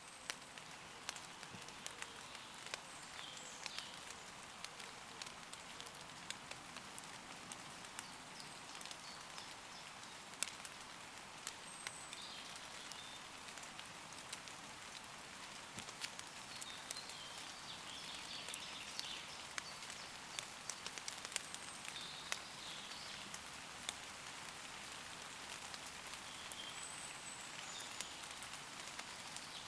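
Steady light rain falling on leaves, with many single drops ticking sharply through the hiss. Faint distant woodland birds call briefly several times.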